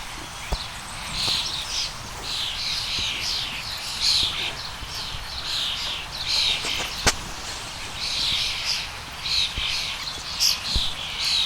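Rapid high-pitched chirping calls, several a second, going on without a break, with a single sharp click about seven seconds in.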